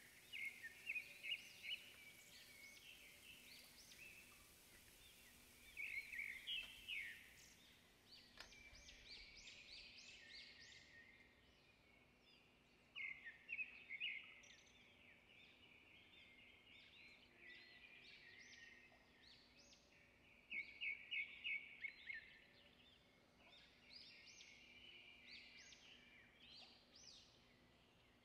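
A bird calling in short groups of rapid chirps, repeating every few seconds.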